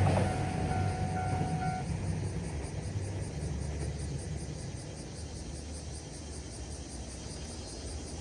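Train rumble fading away after passing a level crossing, with the crossing's warning bell still ringing briefly and stopping about two seconds in.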